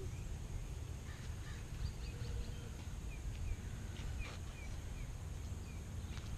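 Birds calling, short high chirps scattered throughout, over a steady low rumble.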